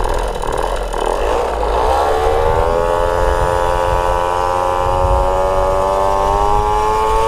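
Small moped engine pulling steadily under load, its pitch rising slowly as it gathers speed, with wind rumble on the microphone underneath.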